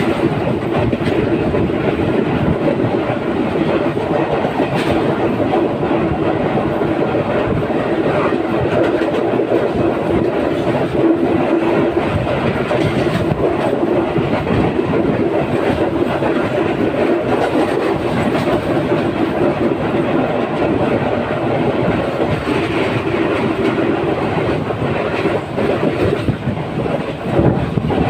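Train running along the track from on board, its wheels clattering steadily over the rails with a continuous rumble.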